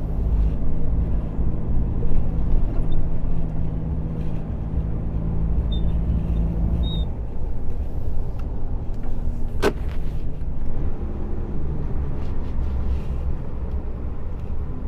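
Heavy truck's diesel engine running while driving, a steady low rumble whose note changes about halfway through. A single sharp click about ten seconds in.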